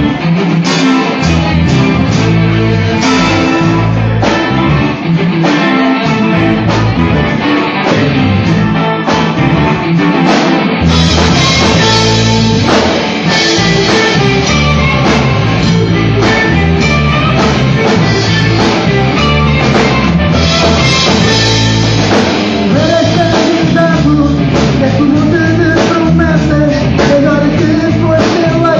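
Rock music with guitar, bass and drum kit playing throughout, and what may be a sung voice over it.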